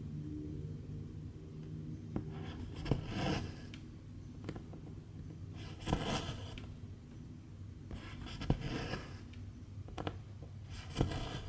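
Needle and silk thread drawn through cross stitch fabric: a short scratchy rasp about every two and a half seconds, four pulls in all, each often starting with a small click.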